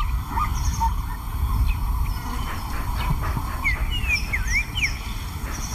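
Birds calling in short whistled glides and chirps, mostly about four seconds in, over a steady low rumble.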